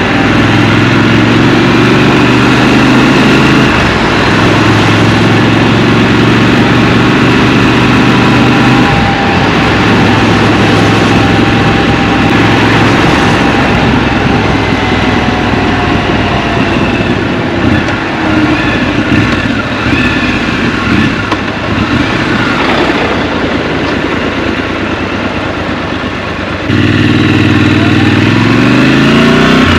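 Scrambler motorcycle engine heard from the rider's position, running steadily under throttle, then easing off for a long stretch where road and traffic noise take over. Near the end it pulls hard again, the engine pitch rising as it accelerates.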